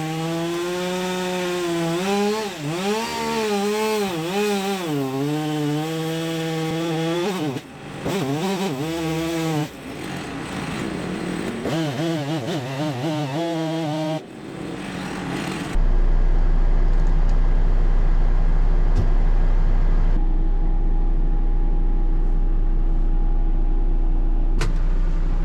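Chainsaw running under load as it cuts, its engine revving up and down with short drops in between. About sixteen seconds in it cuts off abruptly and a steady low engine drone takes over, with one click near the end.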